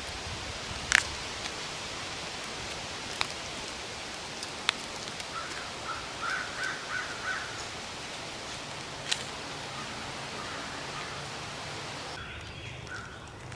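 Steady outdoor background hiss with a few sharp clicks and, midway, a quick run of short chirping calls. The background changes abruptly near the end.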